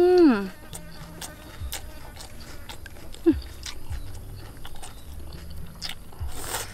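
Close-up chewing of a mouthful of raw bitter melon, with scattered sharp clicks and soft low thuds. It opens with a short held "mmm" hum that slides down in pitch in the first half second, and there is a brief vocal blip about three seconds in.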